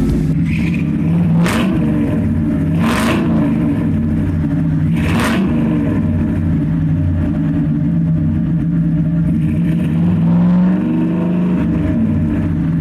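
A tractor engine running steadily, with three short bursts of hissing noise in the first five seconds and a brief rise and fall in pitch around ten seconds in.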